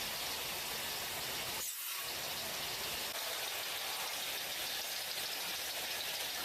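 Steady hiss with no distinct events, briefly dipping in the low range about two seconds in.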